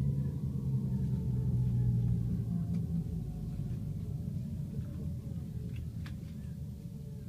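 Tokaido Shinkansen train's low running rumble heard inside the passenger car, fading steadily with a slowly falling tone as the train slows after losing power in an outage.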